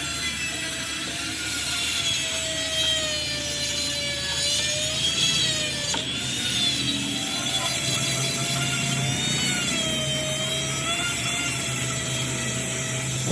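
Metal lathe running under a cut: a steady whine that wavers slightly in pitch, over a low machine hum.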